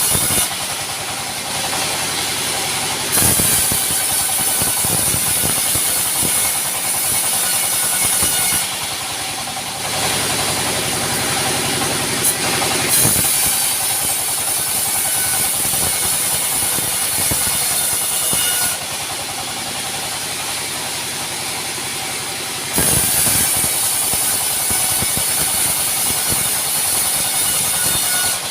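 Sawmill saw and its engine running steadily, with three cuts through timber of about five to six seconds each, heard as a loud high hiss over the engine, the first about three seconds in.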